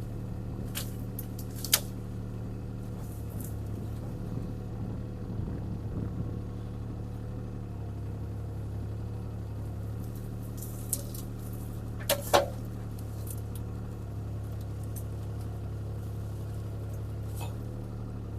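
CAT 303C CR mini excavator's diesel engine running steadily while the machine works, with a few sharp knocks and snaps, the loudest a double knock about twelve seconds in.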